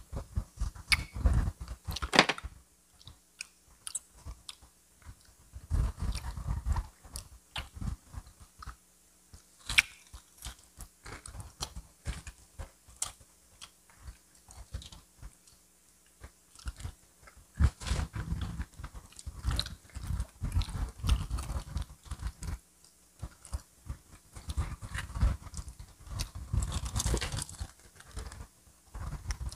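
Biting and chewing crispy fried chicken: irregular bursts of crunches and chewing, with short quiet pauses between them.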